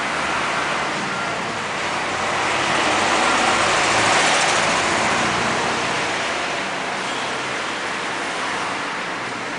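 Road traffic noise, a steady rush that grows louder to a peak about four seconds in as a vehicle passes, then eases off.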